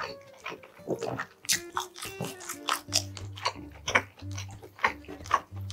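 Close-up sounds of a man chewing with his mouth full: wet smacking clicks from lips and tongue throughout. Background music with a low repeating bass runs underneath.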